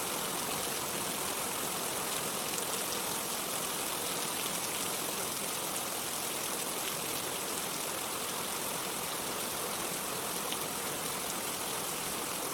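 Steady rain: an even hiss of falling rain with a few faint drop ticks, unchanging throughout.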